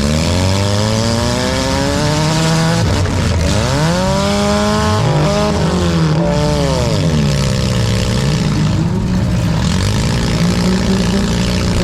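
Several four-cylinder demolition derby cars' engines revving up and falling back again and again, overlapping one another over a steady loud din.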